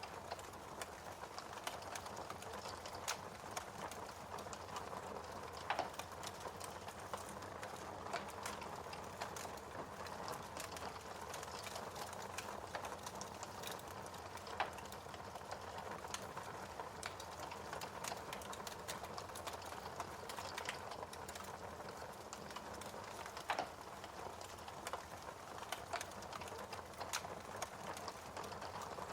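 Fire crackling in a fireplace: a steady hiss of flames with many small snaps and a few louder pops.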